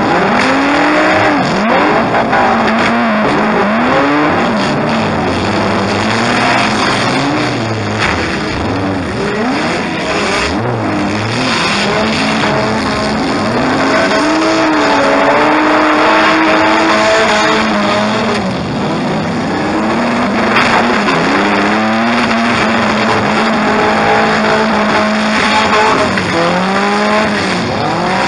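Demolition derby car engines revving up and down over and over, heard from inside a stripped-out car's cabin over a constant loud rush of noise.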